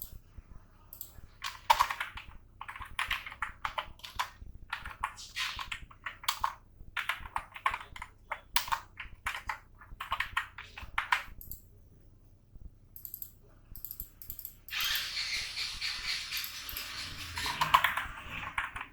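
Typing on a computer keyboard: bursts of quick key clicks with short pauses between them. A denser, steady rushing noise follows for about three seconds near the end.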